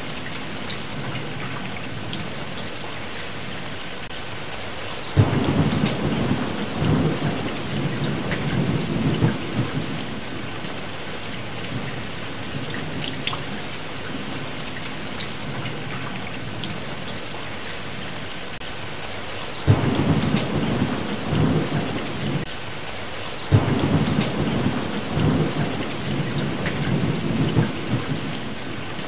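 Steady rain with thunder: three sudden cracks, about five seconds in, near twenty seconds and near twenty-four seconds, each rumbling on for a few seconds.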